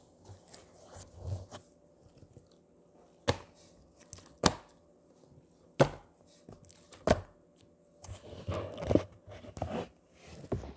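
Slime being worked by hand close to the microphone: four sharp pops about a second and a quarter apart, then a stretch of continuous squishing near the end.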